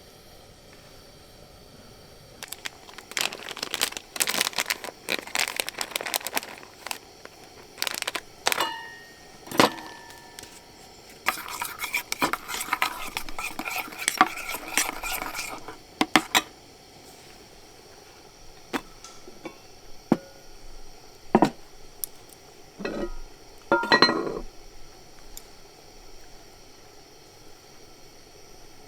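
Cooking utensils and dishes handled: a run of tapping and clattering, two ringing clinks about nine and ten seconds in, then several seconds of scraping, followed by a few separate clinks and knocks.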